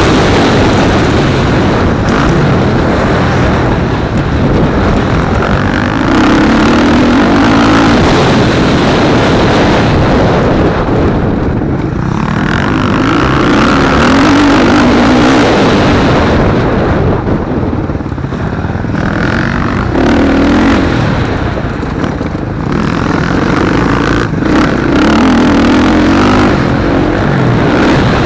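Motocross bikes racing, their engines loud and revving up and falling off again and again as they accelerate and shut off around the track.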